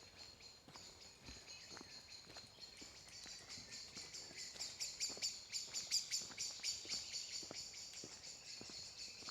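High-pitched, rapid chirping of woodland wildlife, growing loudest about five to seven seconds in, with faint footsteps on the path underneath.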